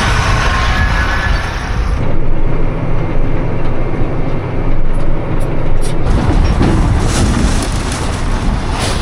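A motor vehicle's engine running, with wind and road noise. The sound changes abruptly about two seconds in, where a steadier low hum takes over, and again about six seconds in.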